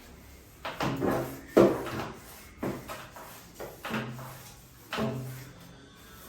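A series of about six short knocks and scrapes from household things being handled during cleaning, roughly one a second; the loudest comes about a second and a half in.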